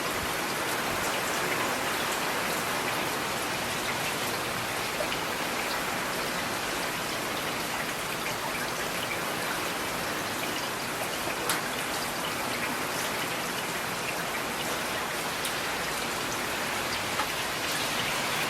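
Steady rain falling, an even hiss of many drops, with a few louder single drops striking a surface now and then, one about eleven seconds in.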